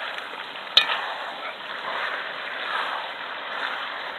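Food sizzling as it fries in a pan and is stirred, with one sharp metallic clink about a second in.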